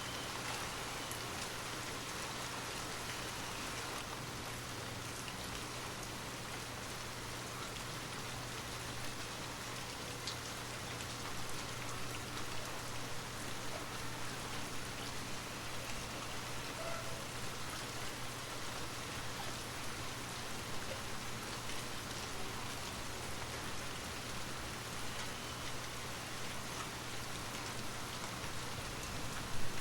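Steady rain ambience: an even hiss of falling rain with scattered drops ticking, over a faint steady low hum. A brief louder patter comes just before the end.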